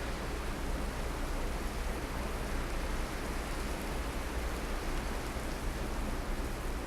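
Blizzard wind blowing steadily, with the low rumble of wind buffeting the microphone.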